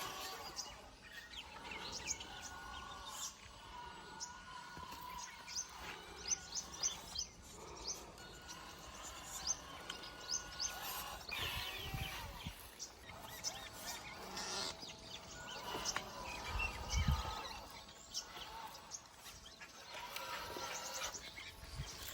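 Birds chirping, many short high calls scattered throughout, over faint steady outdoor background noise.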